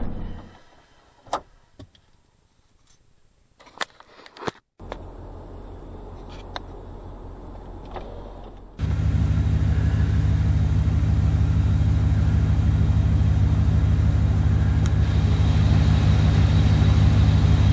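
A vehicle's engine and road noise heard from inside the cabin. It drops away to quiet with a few sharp clicks and a faint hum, then a loud steady driving drone comes in suddenly about nine seconds in and holds.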